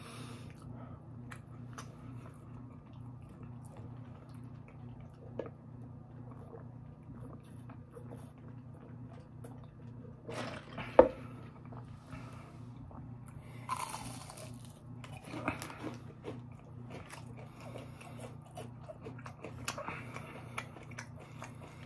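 Close-up chewing and biting of fried fast food, with scattered wet mouth clicks and smacks and one sharp louder click about eleven seconds in. A steady low hum runs underneath.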